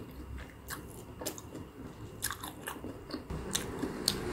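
Close-miked chewing of a bite of potato-coated mozzarella corn dog: scattered soft crunches and wet mouth clicks.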